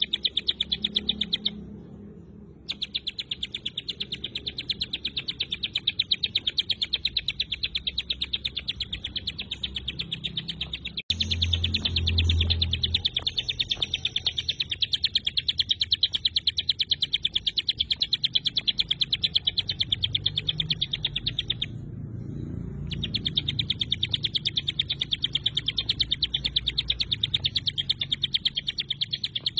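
Ciblek gunung singing its 'tembakan rapat' song: a fast, dense, machine-gun run of high sharp chirps, breaking off briefly twice. A click and a short low rumble come about halfway through.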